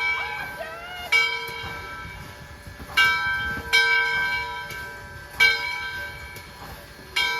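Bell of steam locomotive Southern Railway No. 630, a 2-8-0, ringing in slow, uneven strokes about every one to two seconds. Each stroke rings on and fades.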